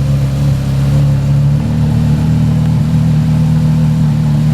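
Porsche Carrera GT's 5.7-litre V10, breathing through a straight-through exhaust with the cats removed, running at steady low revs and holding one low, even note.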